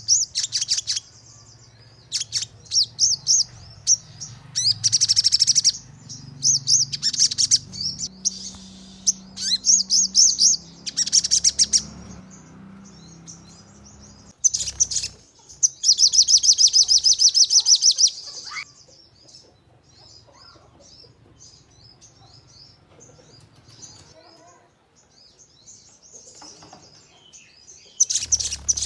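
Sogon (a sunbird) singing: sharp, high-pitched rapid trills in short bursts, then one longer trill of about two seconds partway through. Softer scattered twittering follows, and a loud trill starts again near the end.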